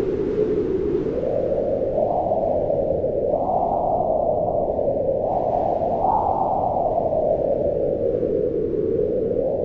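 Howling wind blowing in a steady rush. Its pitch rises and falls slowly with the gusts and is highest about six seconds in.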